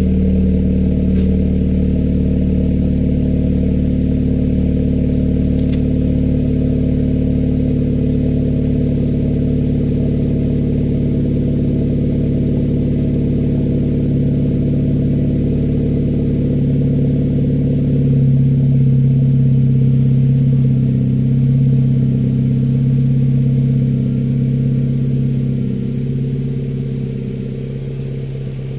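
Honda Civic FD's 1.8-litre R18 four-cylinder idling steadily after a cold start, heard through an HKS medium can exhaust with a performance resonator. Its note changes about two thirds of the way in and gets a little quieter near the end.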